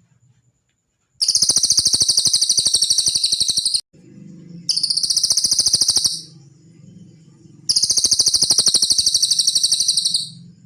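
Cililin bird singing three loud, high-pitched phrases, each a rapid trill of even pulses, the first and last about two and a half seconds long and the middle one shorter.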